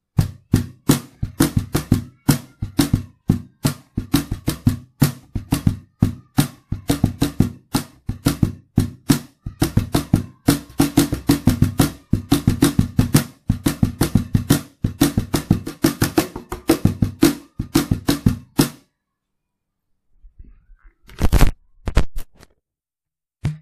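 Wooden cajon played acoustically with bare hands, unamplified: a steady rhythm of hand strokes on the front plate for about eighteen seconds, then it stops. Near the end, a few knocks as the handheld recorder on the floor is handled.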